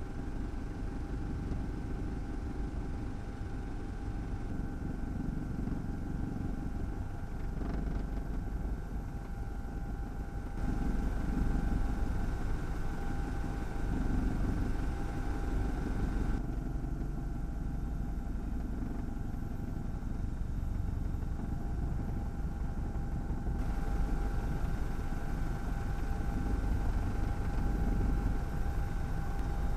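Steady whirring hum of a drone's motors and propellers, a constant high whine over wind rumble, the level jumping at several cuts.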